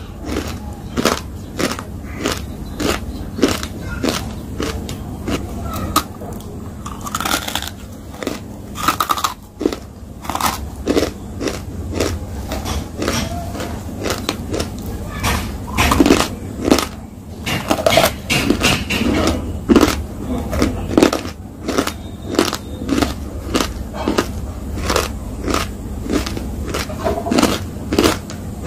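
Close-up chewing of something crunchy with the lips closed: a steady run of crunches, about two a second.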